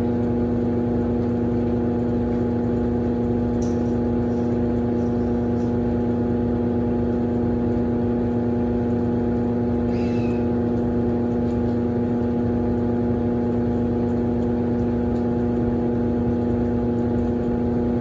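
Consul Facilite 11.5 kg top-loading washing machine running with a steady, constant hum.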